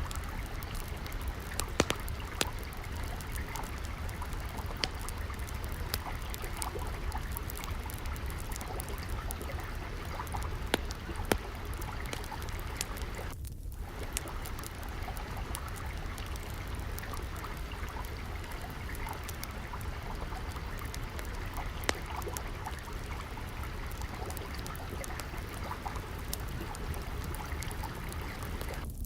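Steady trickle of flowing water with a wood fire crackling over it: a constant run of small crackles and a few sharper pops. The sound drops out briefly about halfway through.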